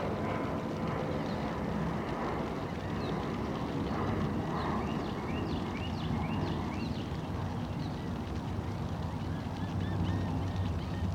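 Wild birds calling: repeated short chirping notes, some sweeping down in pitch, with a quick series of repeated chirps near the end, over a steady low rumble.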